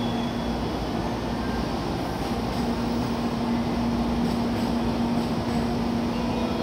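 Steady hum of an N700A Shinkansen train set standing at a platform, its on-board equipment running with a constant low tone that dips briefly about two seconds in.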